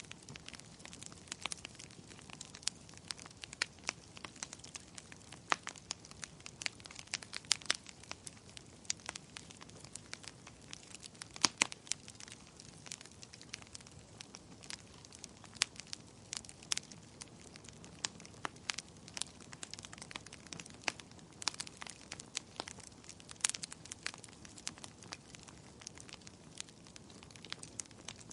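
Wood fire crackling in a fireplace: irregular sharp snaps and pops, several a second, over a faint steady hiss.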